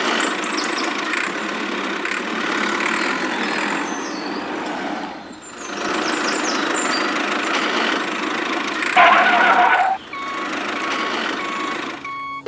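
A steady engine-like running noise that dips briefly about five seconds in. Near nine seconds a short burst of higher tones cuts through, and toward the end a series of short, evenly spaced beeps sounds over it.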